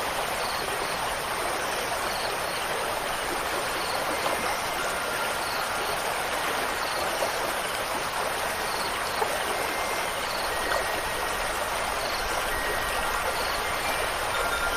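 Steady rushing water of a stream. Faint, thin ringing tones, like wind chimes, come and go over it.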